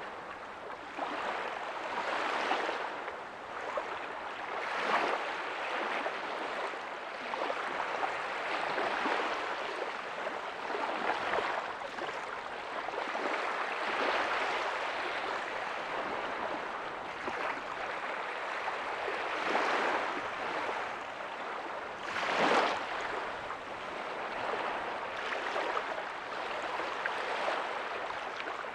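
Small waves breaking softly on a beach, a continuous wash of surf that swells and eases every few seconds, with one stronger wave about 22 seconds in.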